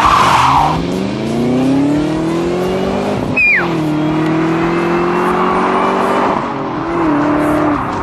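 Two V8 cars, a Chrysler 300C SRT8 and a 2004 Mustang Cobra, accelerating hard from a standing start in a drag race. The engine note climbs through first gear, drops at a gear change about three and a half seconds in, climbs again, and drops at a second shift near seven seconds.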